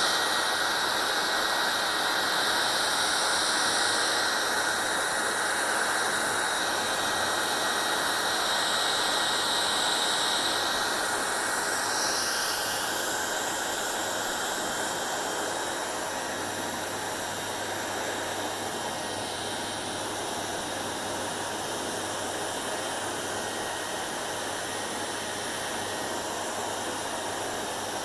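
Hair dryer running steadily: a continuous rushing blow of air with a faint motor hum underneath. About twelve seconds in the sound shifts and becomes slightly quieter, then runs on evenly.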